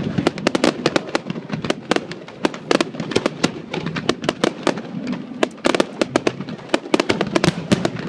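Aerial fireworks display going off in a rapid, irregular string of sharp bangs and crackles, several a second.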